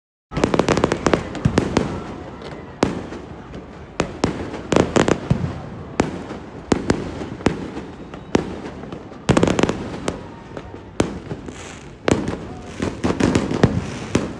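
Fireworks display: many sharp bangs from bursting shells, often in quick clusters, each trailing off in echo, with crackling between them. The sound starts abruptly about a third of a second in.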